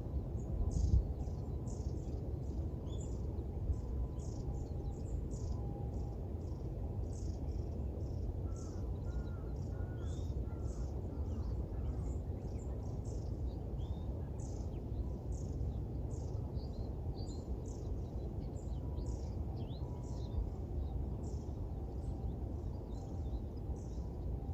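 Small birds chirping rapidly and continuously in a dawn chorus. A few lower crow caws come about ten seconds in. Under it runs a steady low rumble of background noise, with a low thump in the first second.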